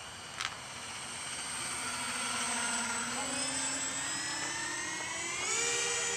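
Radio-controlled Airbus A380 model flying past, its engines whining with several high tones that grow louder and slowly rise in pitch, loudest near the end.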